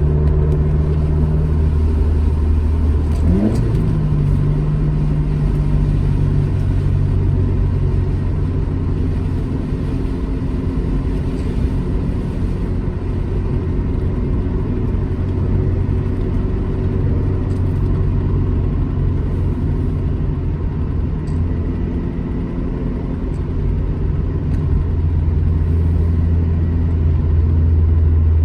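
Alfa Romeo GT Junior's twin-cam four-cylinder engine running steadily under way, with a quick rise and fall in revs about three seconds in.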